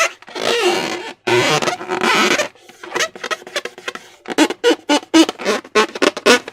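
Slime being squished and stretched by hand: two long wet squelches, then in the last two seconds a quick run of short sticky pops and clicks.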